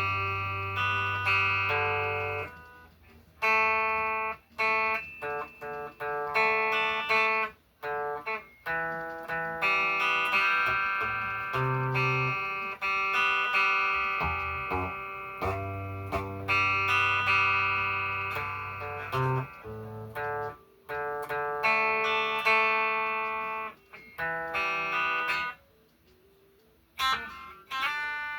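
An electric guitar played through distortion, strumming a chord progression. Each chord rings for one to two seconds before it is cut short and the next chord comes in.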